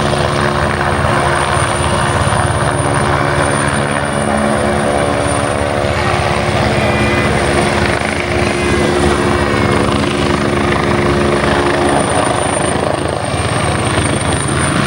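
Helicopter hovering: a steady, continuous deep hum of rotor and engine, with a thin high whine held on top.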